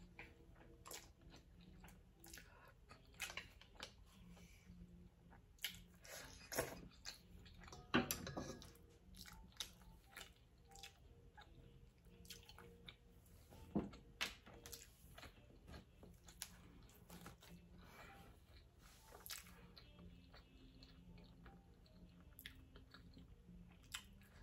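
Soft, close-up chewing and lip smacks of someone eating ramen noodles, with a few louder mouth sounds about eight and fourteen seconds in.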